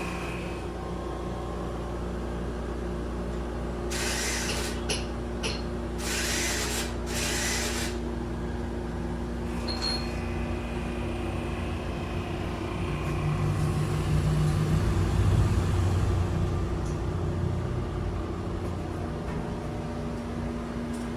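Engine-machining equipment running with a steady hum. Several short hissing bursts come about four to eight seconds in, and a heavier low rumble builds from about thirteen to seventeen seconds.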